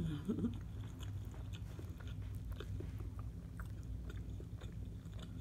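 A person biting into and chewing a shrimp po' boy of cracker-crumb-breaded, air-fried shrimp on French bread, with many small, irregular crunches and mouth sounds.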